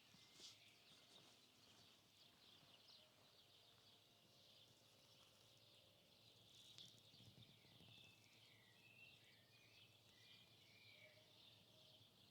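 Near silence: faint outdoor ambience, with a few faint bird chirps about two-thirds of the way through.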